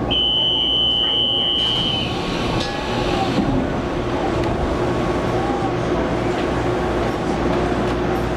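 Running sound of a Taiwan Railways local train heard inside the carriage: a steady rumble of wheels and motors with a held mid-pitched hum. A steady high-pitched beep sounds for about two seconds at the start, then stops.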